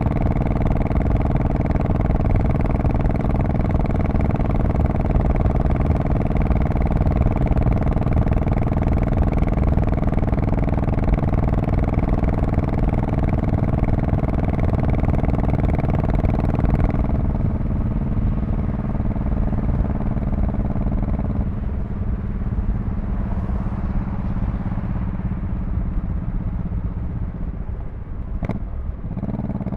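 2002 Honda Shadow Spirit VT1100C V-twin engine and exhaust running on the road under steady throttle. About 17 seconds in the higher hiss falls away as the throttle eases off, and a few seconds later the engine note steps down lower, with a brief dip near the end.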